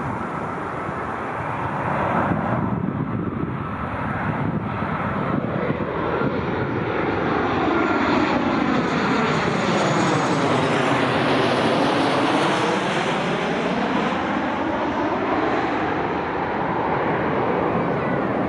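Jet airliner's engines as it flies past at low altitude, growing louder over the first several seconds and holding, with a hollow sweeping tone that falls in pitch and rises again as the aircraft passes closest about two-thirds of the way through.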